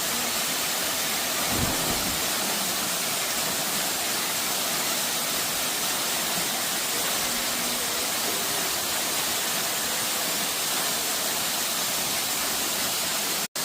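Waterfall, a steady, even rush of falling water, broken by a split-second dropout near the end.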